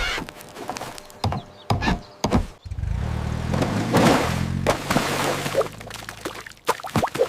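A run of sharp knocks, then a low engine hum starting just under three seconds in, with a rushing swell around four seconds, easing off before a few more knocks near the end.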